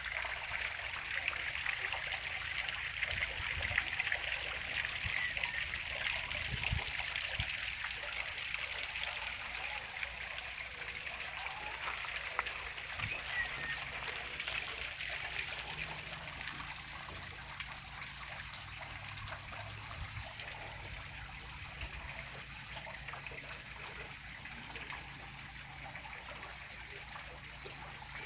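Water from a natural spring trickling steadily, getting slightly quieter over the second half.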